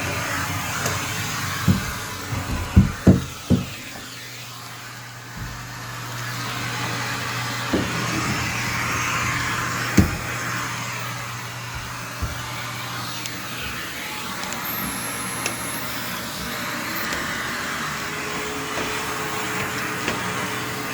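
Vacumaid central vacuum running through a hose and cleaning tool: a steady rush of suction air whose tone shifts as the tool moves, with a cluster of sharp knocks about two to four seconds in and a few single knocks later. Near the end a hum rises in pitch and then holds steady.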